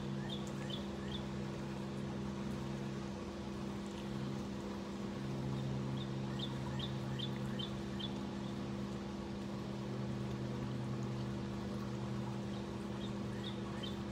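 A bird singing short runs of quick, high chirps, three times, about six seconds apart, over a steady low mechanical hum.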